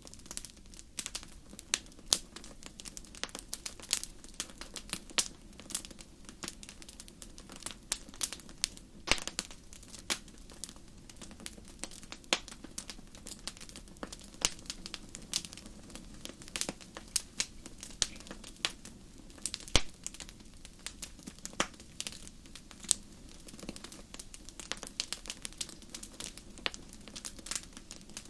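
Wood fire crackling in a fireplace: irregular sharp pops and snaps, several a second and some louder than others, over a soft low rumble of burning.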